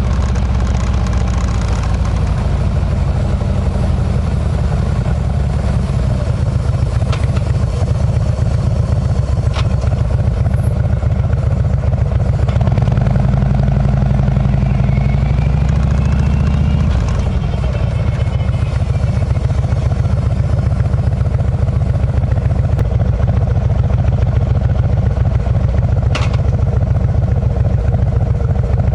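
Harley-Davidson V-twin engine running steadily through a Kesstech exhaust while riding, with the engine pitch briefly dropping and picking up again a little past halfway.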